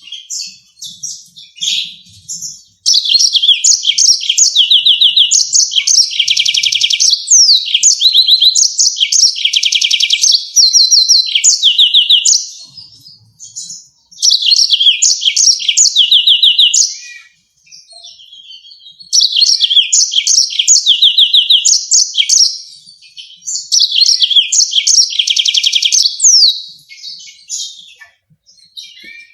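Yellow-fronted canary singing: several long phrases of fast, repeated high notes and trills, each lasting a few seconds, with short pauses between them.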